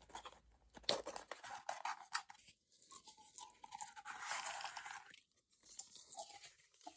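Packaging crinkling and rustling in irregular crackly bursts as the items are unwrapped from a subscription box.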